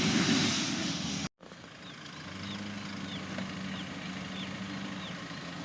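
Off-road vehicle engine running loud and rough for about a second, then a sudden cut to a quieter, steady idle.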